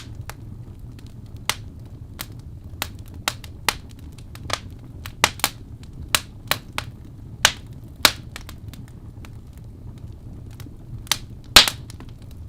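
Wood fire burning in a fireplace: irregular sharp crackles and pops, a few every second and a loud double pop near the end, over a steady low rumble of the flames.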